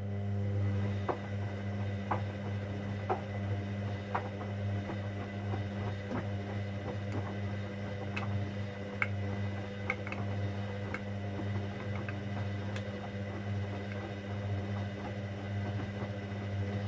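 Hoover Dynamic Next washing machine on a cotton 60 programme: a steady electric hum with a light tick about once a second. The hum cuts off near the end.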